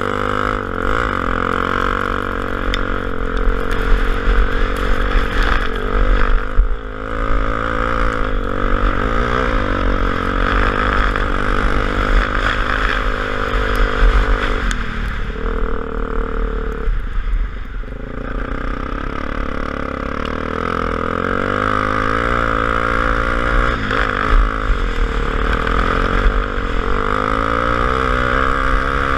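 Single-cylinder engine of a Honda XR250 Tornado trail motorcycle running under way, its pitch rising and falling as the rider changes speed, easing off briefly about halfway through.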